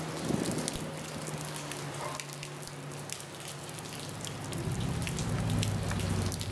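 Heavy rain falling, a steady hiss with many sharp drop impacts close by. A low hum swells in the second half.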